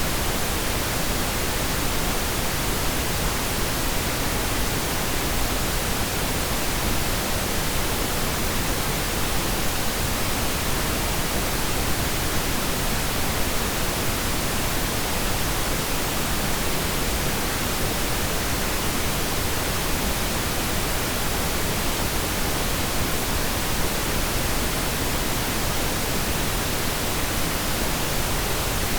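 Steady pink noise: an even, unchanging hiss spread from low to high pitches.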